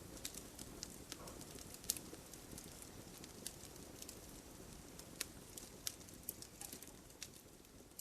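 Campfire crackling: irregular sharp pops and snaps of burning wood over a low steady hiss, with one louder snap about two seconds in.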